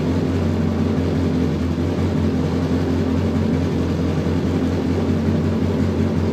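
Car engine idling steadily, a constant low hum heard from inside the cabin.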